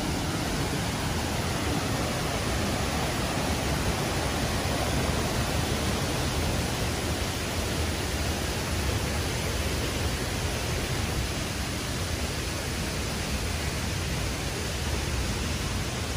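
Steady rush of a waterfall and river water.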